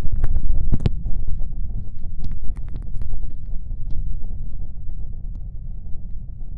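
Wet ear-licking sounds on a binaural microphone in the left ear, with the ear covered: a tongue pushed deep into the ear and moving, heard as a muffled low rumble with many scattered wet clicks and smacks.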